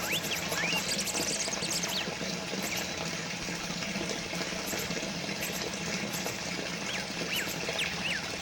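Small water fountain trickling and splashing steadily, with a few short, quick birds' chirps about a second in and again near the end.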